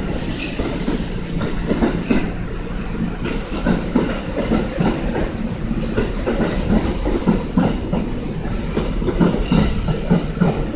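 Kintetsu limited express train rolling slowly over the station's points and rail joints, its wheels clicking and clattering irregularly. A steady hiss comes in about two seconds in and stays.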